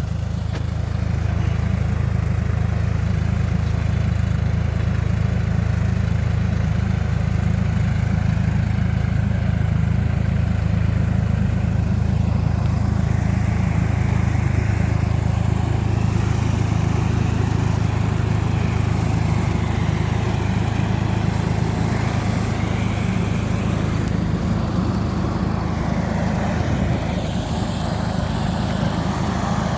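Hattat B3065 tractor engine running steadily under the work of spraying an orchard.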